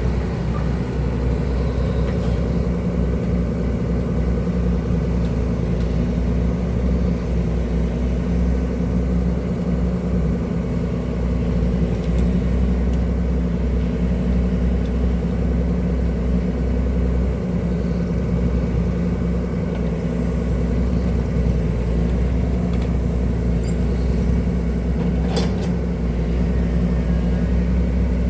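Excavator diesel engine running steadily under load, with a single brief click or knock about 25 seconds in.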